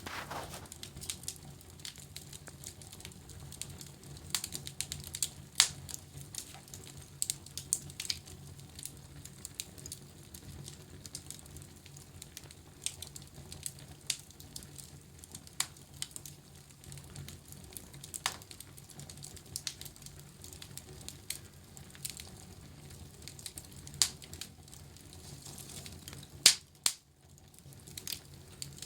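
Wood fire crackling in a fireplace: irregular sharp pops and snaps over a low steady rush, with two louder pops close together near the end.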